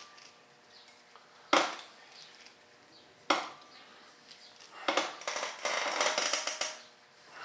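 Workbench handling sounds: two sharp knocks of hard objects set down, then about two seconds of dense crackling and rustling near the end.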